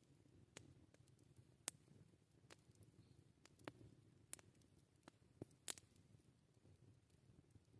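Wood campfire crackling quietly: irregular sharp pops and snaps over a soft low rumble of the burning fire. The loudest snap comes just under two seconds in.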